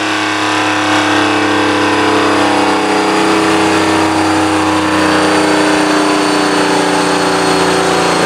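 Turbocharged 3.7-litre V6 of a single-turbo Nissan 370Z NISMO running loudly on a chassis dyno, with a steady engine note during a dyno run.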